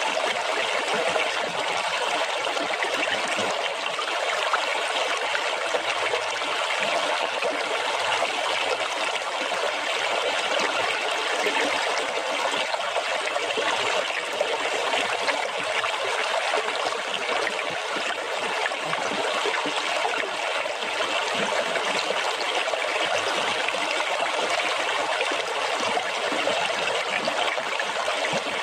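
Water splashing and trickling steadily in an even, unbroken rush.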